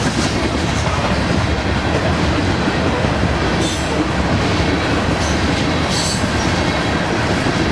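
Freight train cars rolling past on the rails in a loud, steady rumble. Brief high-pitched wheel squeals come twice, about three and a half and six seconds in.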